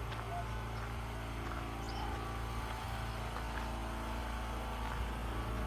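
An engine running steadily, a low hum with a few faint ticks over it.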